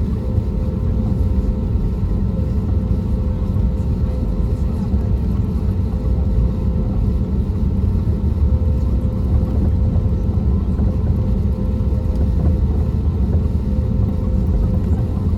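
Steady cabin drone of an Airbus A320neo with CFM LEAP-1A26 engines, heard from inside the cabin: a deep, even rumble with a steady hum tone above it.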